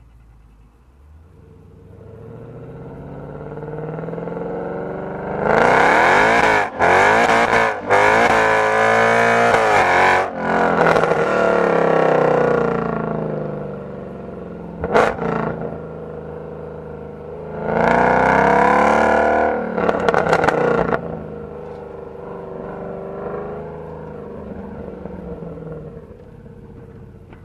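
Mercedes-Benz C63 AMG's 6.2-litre V8 accelerating hard, loud with brief breaks as it changes gear, then easing off. A short sharp crack comes about halfway through, followed by a second hard burst of acceleration before it settles to a quieter cruise.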